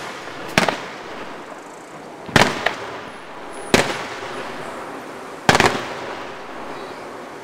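Aerial fireworks shells bursting: four sharp bangs spaced about one and a half to two seconds apart, with a smaller pop just after the second, over a steady background noise.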